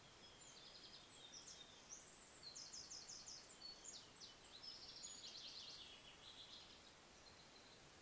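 A small songbird singing faintly: one long, high song of rapid trills and rattling phrases lasting about six seconds, starting just after the start, against a quiet woodland background.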